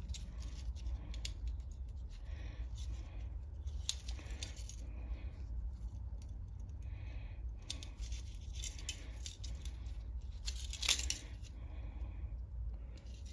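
Small metal carburetor parts being handled and worked apart by hand: scattered light clicks, clinks and short scrapes, with a louder scrape about 11 seconds in, over a steady low hum.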